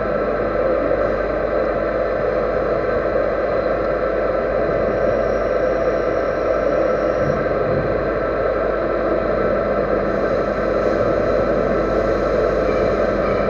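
A machine tool running steadily: a constant hum with several steady whining tones over an even mechanical noise.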